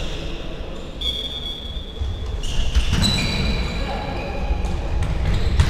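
Outdoor amateur football match sounds: distant players' voices and occasional ball thumps over a constant low rumble of wind on the microphone, with several held high tones from about a second in.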